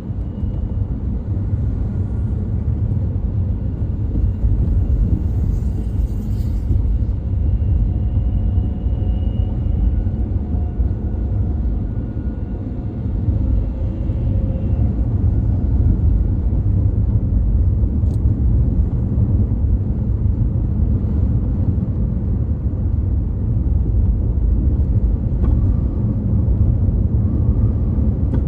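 A car driving on a city street: a steady low rumble of engine and road noise, with no break.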